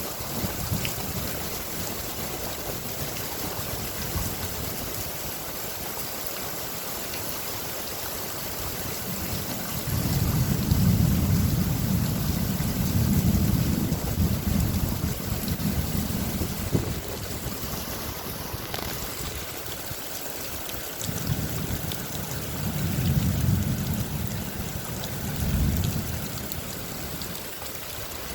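Steady rain with two long, deep rolls of thunder, the first about ten seconds in and lasting several seconds, the second about twenty-one seconds in.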